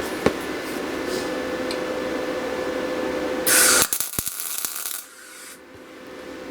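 A power tool running steadily with a constant whine. About halfway through there is a short, loud, harsh burst of grinding, then a few sharp clicks, and the sound drops to a much quieter level.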